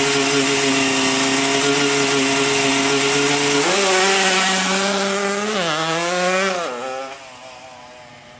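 Drag-tuned Yamaha RX-King's two-stroke single-cylinder engine running hard with a steady buzzing note, stepping up in pitch a little under four seconds in, dipping and rising again, then falling away and fading about seven seconds in.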